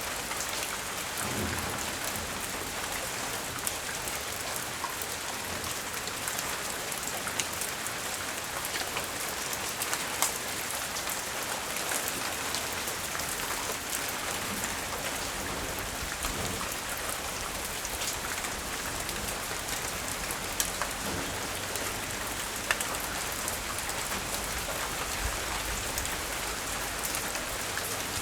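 Light rain falling steadily, with individual drops ticking onto surfaces close by and a few louder single drips now and then.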